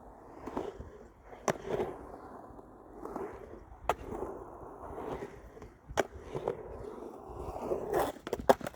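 Skateboard wheels rolling in repeated swells that rise and fall, broken by sharp clacks of the board or trucks about five times.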